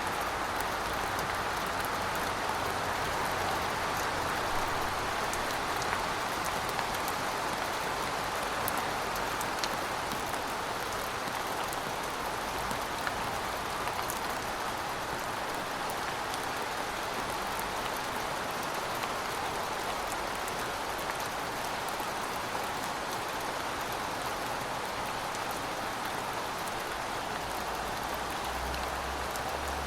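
Steady rainfall, a dense hiss of drops with many small patters hitting a surface.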